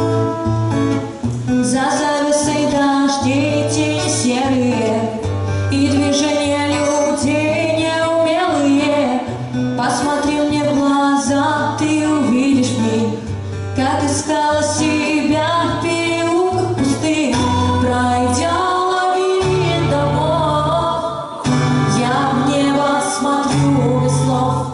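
Female voices singing a song to guitar accompaniment.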